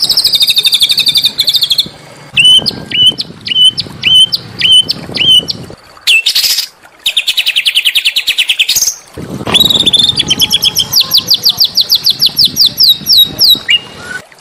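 Small songbird song made of high, sharp whistled phrases. It runs from a chattering trill into a series of separate rising notes about two a second, then a fast buzzy trill, then a long run of rapid repeated notes. The segments start and stop abruptly, as if spliced together.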